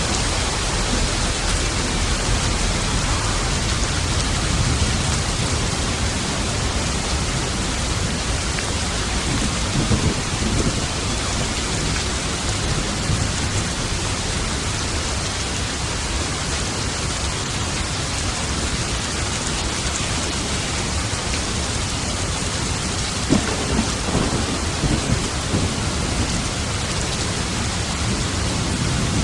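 Heavy steady rain with low rolling thunder, a louder crackle of thunder at about 23 seconds in.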